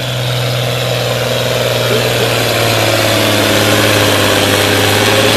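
Farm tractor engine running hard under load while pulling the weight-transfer sled in a 15,000 lb tractor pull, a steady loud drone that grows slowly louder.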